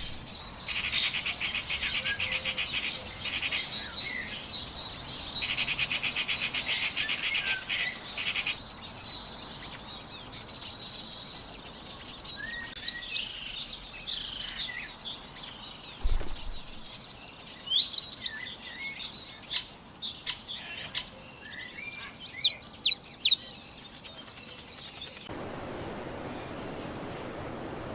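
Several birds chirping and whistling, with many short high calls and quick rising and falling notes, and a fast buzzing trill in the first few seconds. Near the end the calls stop and give way to a steady hiss.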